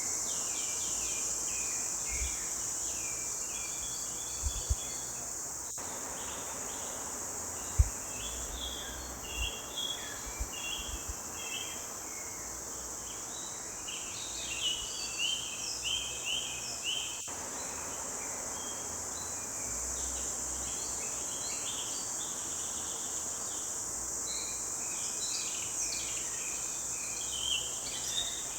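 Forest songbirds chirping and singing in short repeated phrases over a steady high insect drone, with a few brief low thumps, the sharpest about eight seconds in.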